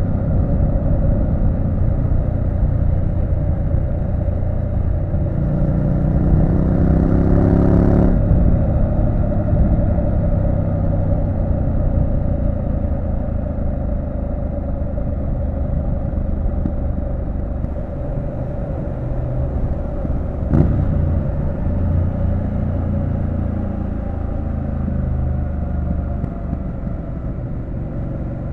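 Triumph Street Scrambler 900's parallel-twin engine running under way, its note climbing for a few seconds and then dropping off sharply about eight seconds in, before running on steadily. There is a single sharp knock about twenty seconds in.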